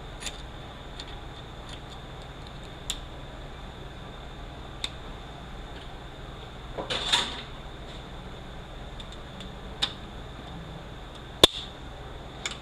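Hand tools working on metal parts of an automatic transmission, most likely freeing a snap ring: scattered light metallic clicks and taps, a brief scraping rustle about seven seconds in, and a single sharp metallic click near the end, the loudest sound.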